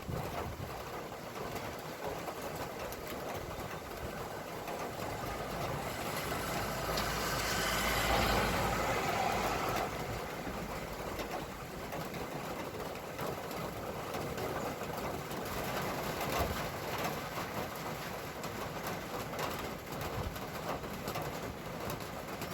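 Street traffic: a motor vehicle drives past, its engine and tyre noise swelling and fading about six to ten seconds in, over a steady background hiss.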